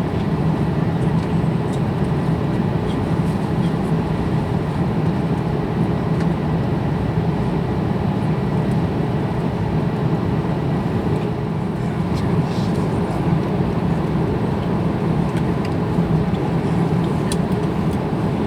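Steady drone of an Airbus A350-900 cabin in flight: engine and airflow noise, mostly low and unchanging, with a few faint clicks near the end.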